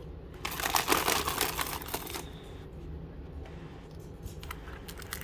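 Packaging crinkling and rustling as a small collectible is handled and unwrapped, loudest in a burst during the first two seconds, then fainter crackles and clicks.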